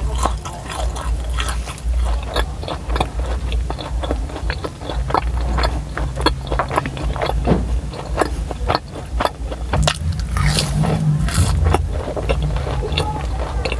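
A person chewing and biting a sesame-coated, coconut-filled flour dessert close to the microphone, with many irregular wet mouth clicks over a steady low rumble.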